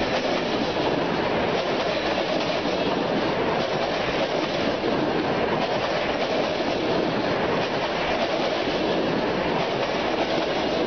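A train running along the track: a steady, even noise of wheels on rails that holds at one level throughout.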